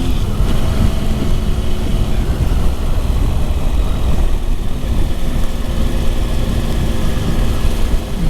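Motorcycle engine running at a steady road speed, nearly buried under heavy wind rush on the helmet-mounted microphone.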